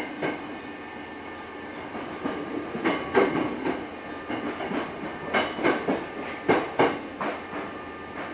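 Hankyu 6300 series electric train running, heard inside the car: a steady running hum. From about three seconds in comes a run of sharp wheel clacks, several in quick pairs, as the wheels pass over rail joints.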